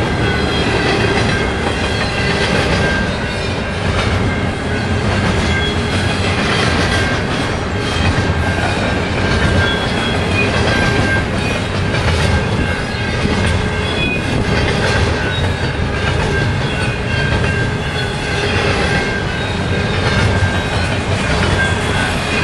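Double-stack intermodal well cars rolling past close by: a steady rumble of steel wheels on rail with clicks over the rail joints and short high squeals from the wheels now and then.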